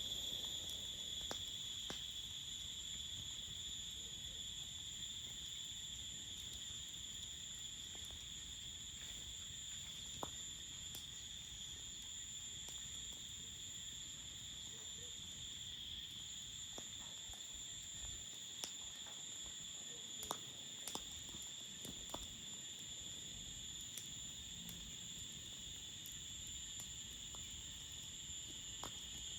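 Crickets chirring in a steady, unbroken chorus, with a few sharp clicks scattered through it.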